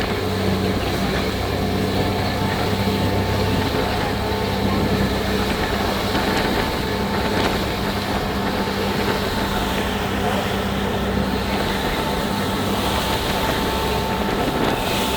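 Ferry's engines running steadily under way: a constant drone with a few unchanging hums over a dense rush of noise.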